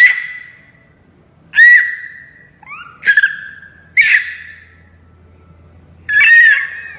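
Parrot giving a series of shrill whistling calls, about six in the span, each starting sharply and tailing off, with a longer one near the end.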